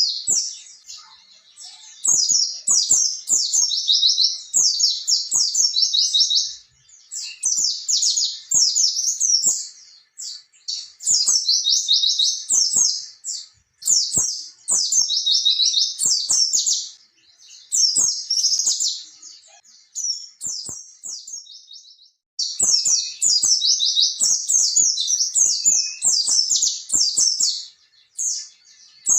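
White-eye (pleci) singing a long, rapid, rolling chirping song, in runs of a few seconds broken by short pauses.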